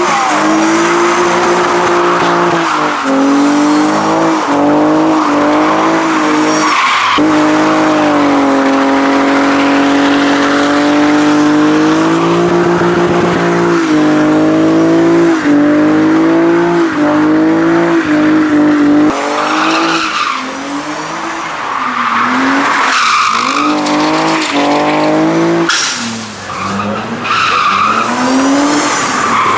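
A car engine held at high revs, dipping and climbing again and again, over tyres squealing and skidding, as in a burnout or donuts. In the last third the revs swing up and down more quickly in short blips.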